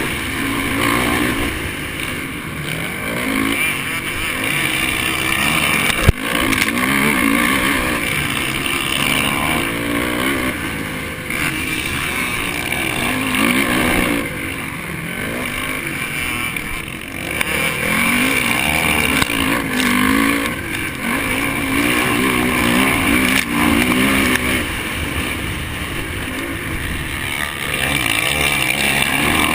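Honda 450 motocross bike's four-stroke single-cylinder engine being ridden hard, its pitch repeatedly climbing and dropping as it revs up and backs off. A sharp knock comes about six seconds in.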